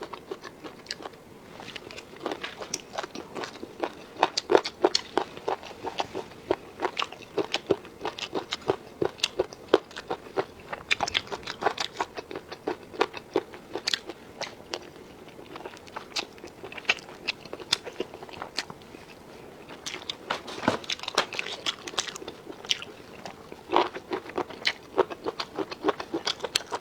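A person eating close to the microphone: crunchy bites and chewing, a dense, irregular run of crisp crackles and clicks that thins out for a few seconds in the middle.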